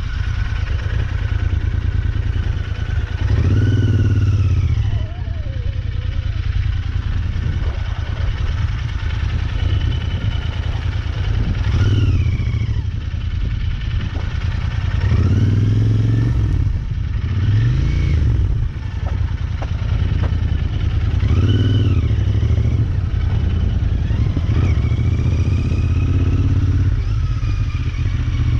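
Royal Enfield Interceptor 650's parallel-twin engine, revving up and easing off again and again at low speed through tight turns. Its pitch rises and falls every few seconds over a steady low rumble.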